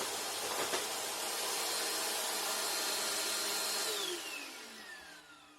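Bissell Power Force bagged vacuum running at full suction, then switched off about four seconds in, its motor whine falling in pitch as it spins down. A brief knock about a second in.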